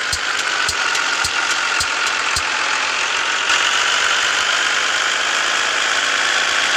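Scania S 450 truck's 13-litre six-cylinder diesel running steadily on the road, with engine and road noise throughout. A regular ticking about twice a second sounds through the first couple of seconds and then stops.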